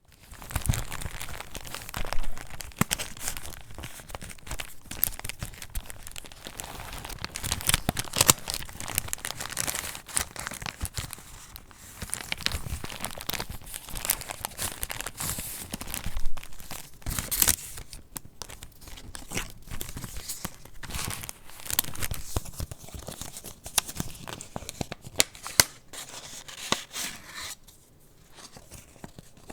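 Paper pages and layered scraps of a handmade junk journal being handled and turned: continuous rustling and crinkling with many sharp crackles, easing off in the last couple of seconds.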